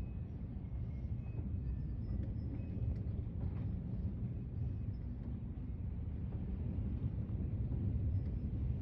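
Gusty thunderstorm wind buffeting the microphone: a steady, rough, low rumble that swells slightly near the end.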